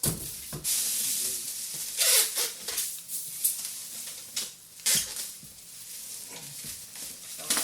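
Packaging being handled as a PC case is unpacked from its box and styrofoam: irregular rustling and scraping with a few sharp knocks, the strongest right at the start and about five seconds in.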